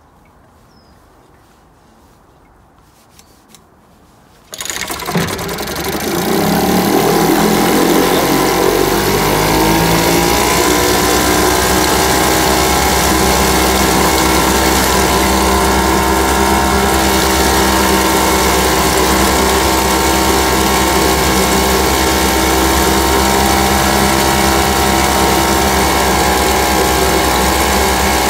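A 1957 British Seagull outboard's single-cylinder two-stroke engine catches on a pull about four and a half seconds in, with the choke open. Its speed wavers for a few seconds, then it settles into a steady run.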